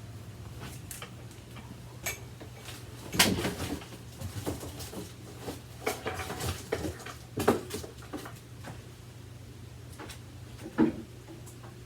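Scattered knocks and clatter from handling an upright vacuum cleaner and its parts, over a steady low hum. The loudest knocks come about three seconds in, at about seven and a half seconds, and near the end.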